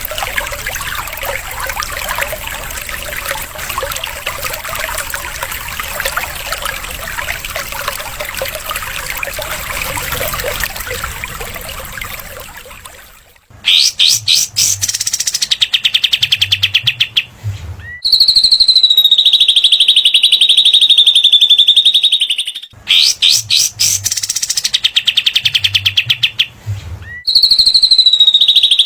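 Trickling water for about the first half, then after a brief gap a loud, high, very rapid bird trill followed by a long fast chatter, the same phrase repeating about nine seconds later: a looped masteran recording of small songbirds (cililin and katem).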